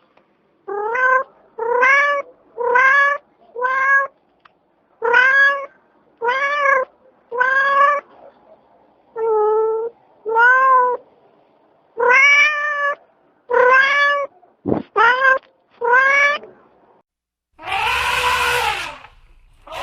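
Cat meowing over and over: about fourteen short meows, each under a second and rising in pitch. Near the end comes a longer, harsher, noisier call.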